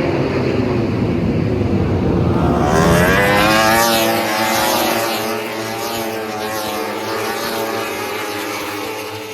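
World Superbike racing motorcycles passing at speed, each engine note falling in pitch as it goes by; a second, louder bike comes through about three seconds in and fades away near the end.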